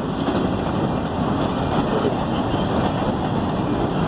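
Freight cars rolling past on the rails: a steady rumble of steel wheels on track.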